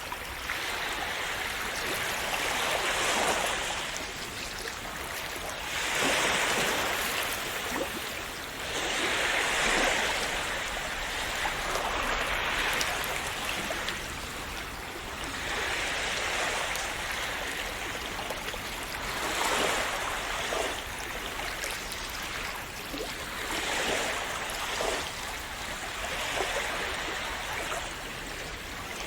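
Small sea waves washing onto a shore, each swelling and falling away every few seconds in a steady splashing wash.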